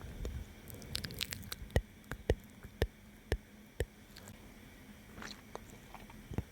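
Close-miked ASMR mouth sounds: wet clicks and smacks. A quick cluster comes about a second in, then single sharp clicks follow about every half second, thinning out near the end.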